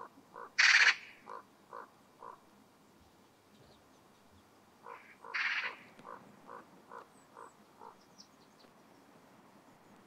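A bird calling in two series of short, evenly spaced notes, about five seconds apart. Each series has one loud, longer call near its start.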